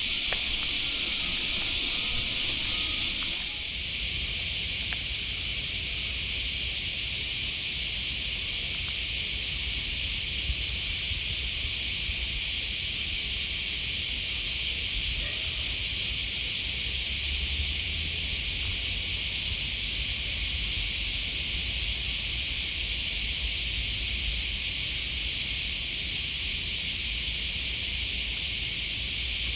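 Outdoor ambience: a steady, even high-pitched hiss over a low rumble, changing slightly about three and a half seconds in.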